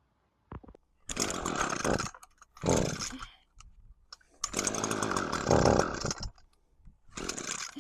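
A power tool running in four short bursts of about a second each, the third one longer.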